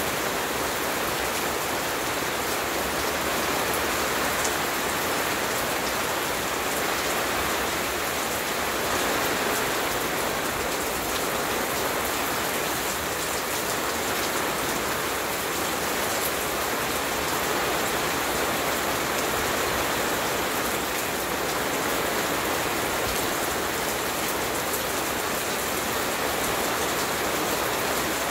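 Steady rain falling on a garden lawn and plants, an even hiss of drops that does not let up.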